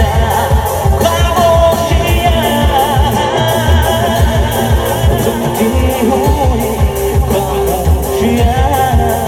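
Music: a live band playing a Bollywood song, with a steady drum beat under a wavering melody line.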